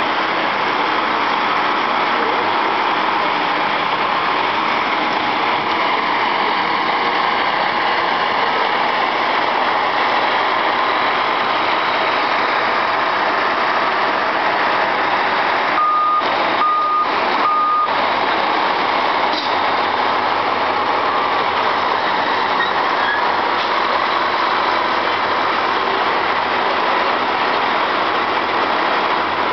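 Heavy truck engines running steadily, with three short backup-alarm beeps about halfway through.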